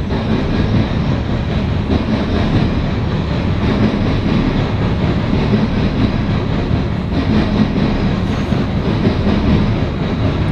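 CSX coal train passing close by: the steady, loud noise of its wheels rolling on the rails.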